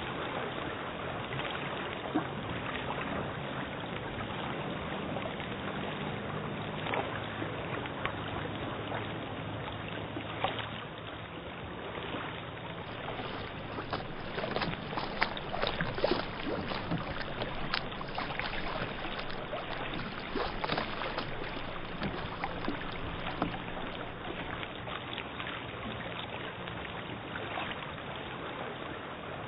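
Steady hiss with scattered clicks and crackles and a faint low hum: the surface noise of an old film soundtrack.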